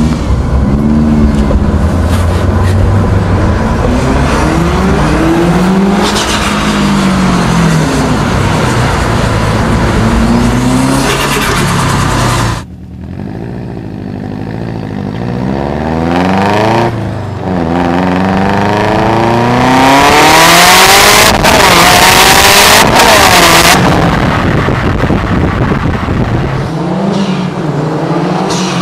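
Turbocharged Subaru Impreza WRX STi Type R flat-four engine accelerating through the gears, its pitch climbing and dropping back at each gear change. It goes briefly quieter about 13 seconds in, and a loud rushing noise rides over the engine for a few seconds near the 20-second mark.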